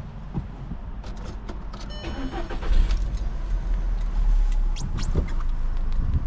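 Volkswagen Polo 1.4 being started from inside the car: a few small clicks, a brief whine about two seconds in, then the engine catches with a jump in its low rumble and keeps running.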